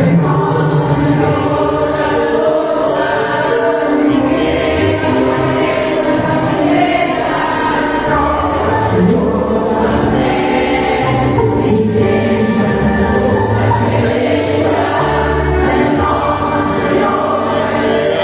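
Group of voices singing a gospel hymn over steady instrumental accompaniment.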